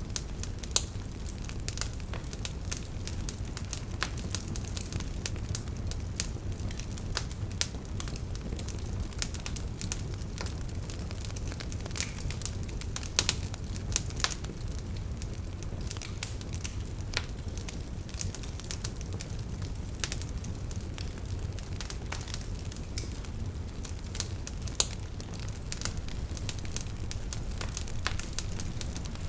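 Wood campfire burning, crackling and popping irregularly over a steady low rumble, with a few sharper pops standing out.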